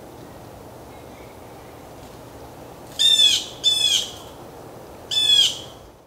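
A bird calling: three loud falling notes, the first two about two-thirds of a second apart and the third about a second and a half later, over a steady low background hum.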